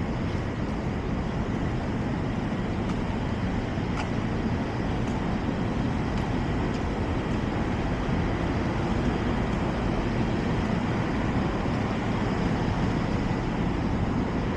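Steady city street traffic noise: the continuous rumble of cars and other road vehicles passing.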